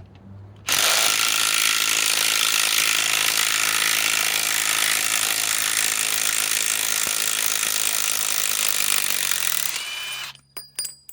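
Bosch GDS18V-330C cordless mid-torque impact wrench hammering steadily for about nine seconds as it backs a lag screw out of wood, then winding down and stopping. A few sharp clicks follow near the end.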